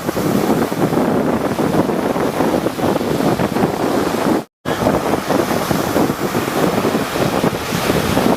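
Sea surf: waves breaking and rushing continuously, with wind buffeting the microphone. The sound drops out to silence for a fraction of a second about halfway through, then resumes, like an edit cut.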